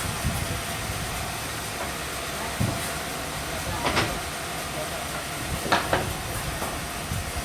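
Sawmill machinery running steadily with a faint hum and hiss, broken by a few short knocks and clatters.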